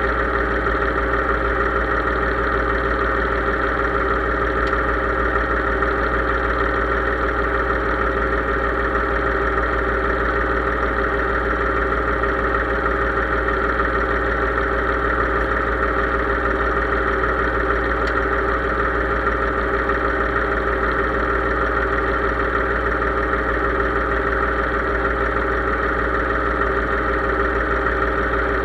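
Case IH 3220 tractor's diesel engine running steadily at an even speed.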